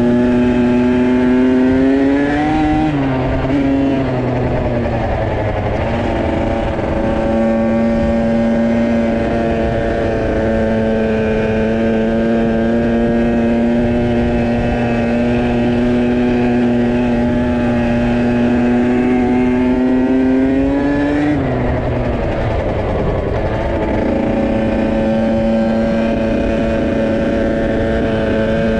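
Dirt bike engine running loud and hard at high revs. Its pitch holds steady for long stretches, twice climbing and then dropping sharply: about three seconds in and again near the three-quarter mark.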